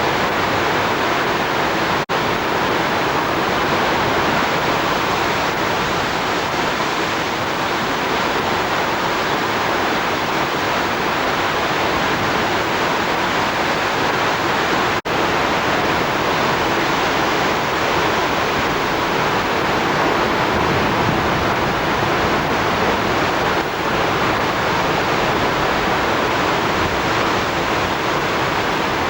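Steady, loud rushing noise with no speech, broken by two momentary dropouts about two seconds and fifteen seconds in.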